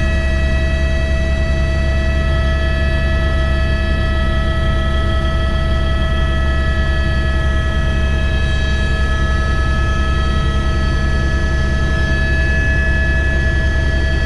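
Helicopter in flight: a steady, loud low drone with several high, unchanging whining tones over it.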